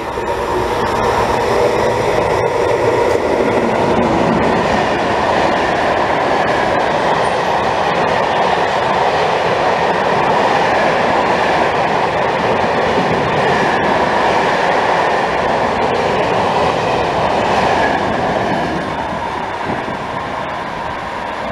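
Freight train of closed covered wagons, hauled by an E.652 electric locomotive, passing close by: a steady rumble and rattle of wagon wheels on the rails with a few faint clicks, easing off near the end as the tail of the train draws away.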